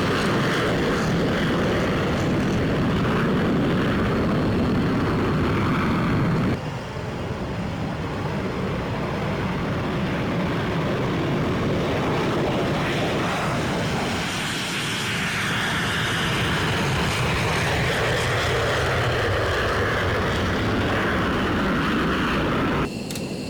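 Fighter jet engines running loud, heard in edited shots: the sound changes abruptly about six and a half seconds in and again near the end, and partway through a slowly shifting jet noise like an aircraft passing.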